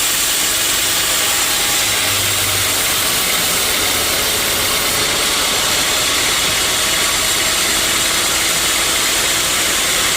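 Sawmill saw running steadily, a loud even hiss with no pauses.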